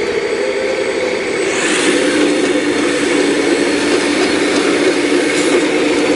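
Full-size excavator's diesel engine running steadily under load while digging, with a brief rushing hiss about a second and a half in.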